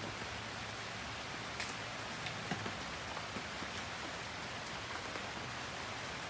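Steady rain falling on the fabric roof of a Clam pop-up screen tent, heard from underneath, with scattered louder single drops.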